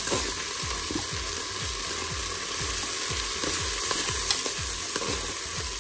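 Lentils, onion, red pepper, garlic and tomato sizzling in olive oil in a Cookeo multicooker bowl on its browning setting, with a spoon stirring through them in repeated strokes over a steady sizzle.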